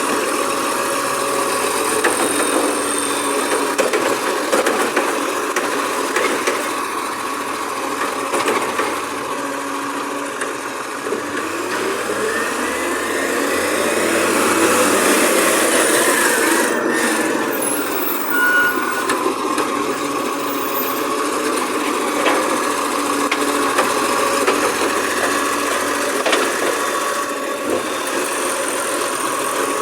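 Garbage truck engine running, swelling up in pitch and loudness about halfway through and then falling back.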